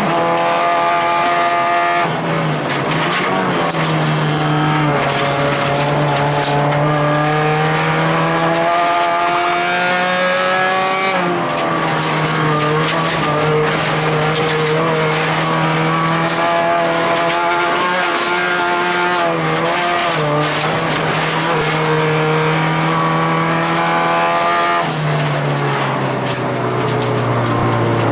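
Acura RSX rally car's stock 2.0-litre four-cylinder engine running hard under load, heard from inside the stripped cabin. The engine note holds steady for long stretches and shifts in pitch a few times, over a constant hiss of tyre and road noise.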